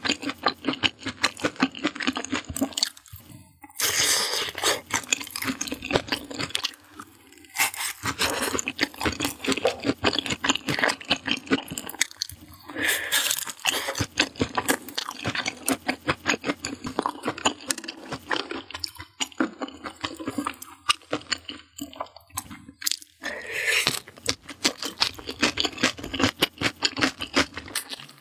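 Close-miked chewing of grilled skewered food: a dense run of rapid crunchy clicks from the mouth, with a few louder stretches where she takes a bite.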